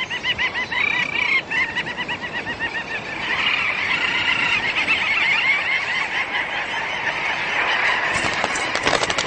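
A breeding colony of little auks (dovekies) calling, many birds giving rapid, repeated chattering notes all at once. A few sharp clicks come near the end.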